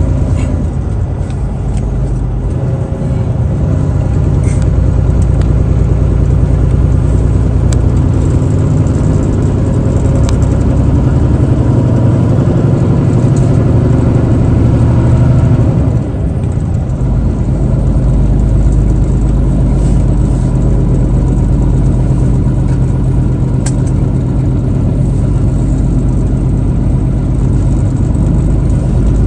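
Truck engine running steadily under way, with road noise. The level dips briefly a little past halfway, then the engine carries on.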